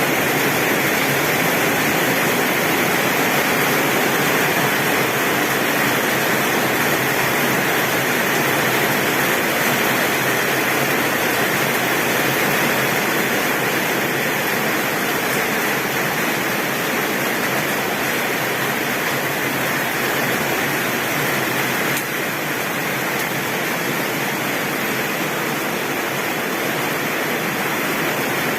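Heavy, steady rain on a tin roof, a dense even hiss, easing a little about two-thirds of the way through.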